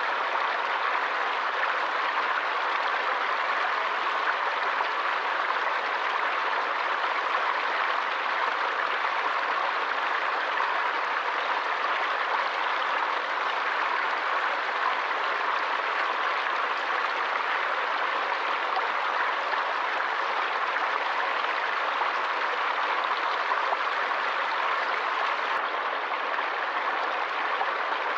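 Forest stream of water running steadily, an even hiss that neither rises nor falls.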